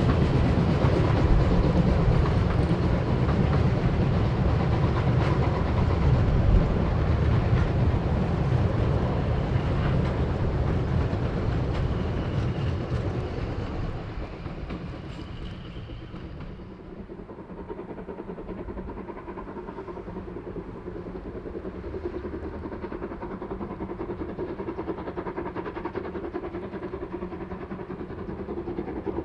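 Narrow-gauge steam train hauled by locomotive 99 1741-0 running on the track, loud for about the first half, then fading away over a few seconds and going on faintly.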